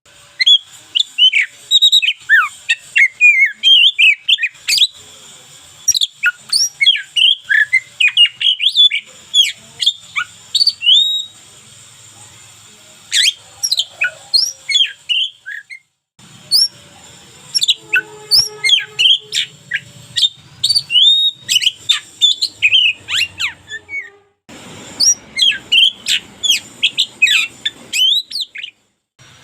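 Oriental magpie-robin singing a fast, varied song of whistled notes, slurs and chirps, broken by a few short pauses.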